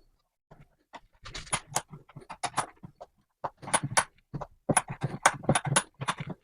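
Quick, irregular metallic clacks and knocks, in clusters of several a second, from a cast-iron bench vise being handled and worked.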